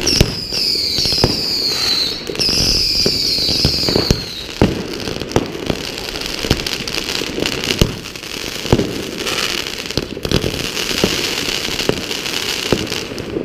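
New Year's Eve fireworks going off. Two whistles in the first four seconds, each about two seconds long and falling in pitch, over a steady crackle and many sharp bangs spread across the whole stretch.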